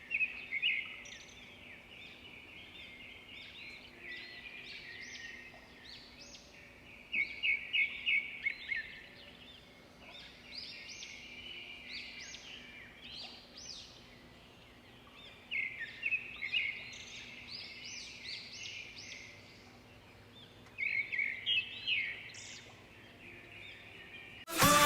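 A bird singing: short phrases of rapid high chirps, repeated every several seconds. Music starts abruptly right at the end.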